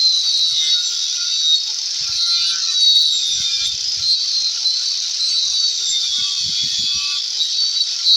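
Power tool cutting a hole in a wooden subwoofer box: a steady, loud hiss over a faint motor hum that sags and recovers under load, with a few low knocks.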